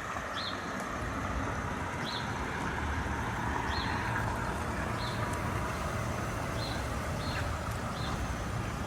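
Semi truck's diesel engine running steadily at low speed during a slow maneuver, with short high chirps, like a small bird's, repeating roughly once a second.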